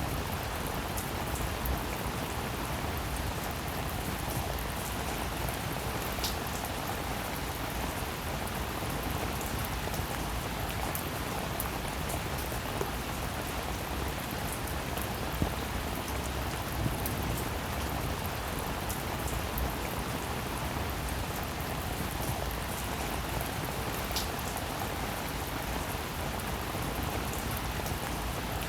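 Steady rainfall, an even hiss of rain on a surface with scattered individual drops ticking through it, and a couple of sharper drop clicks along the way.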